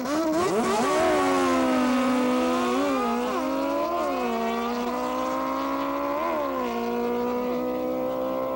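Motorcycle engine revving hard: quick throttle blips, then held at steady high revs with a few short blips around a third and two thirds of the way through.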